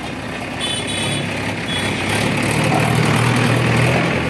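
Heavy diesel engine running, revving up and getting louder about halfway through, with a few short high squeaks early on.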